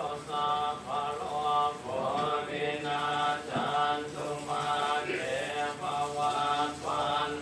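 Buddhist monks chanting in Pali: a steady, sung recitation of a blessing in short held phrases.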